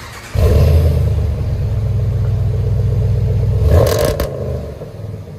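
Ram 1500's 5.7L Hemi V8 revving through a true-dual exhaust with Dynomax Race Bullet mufflers and factory resonators: the engine note jumps up sharply about half a second in, holds for about three seconds, surges once more around four seconds in, then drops back down.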